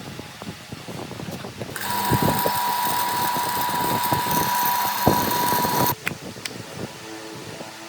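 A small electric motor runs at one steady speed with a high whine for about four seconds, starting about two seconds in and cutting off suddenly. Light clicks and knocks of handling come before and after it.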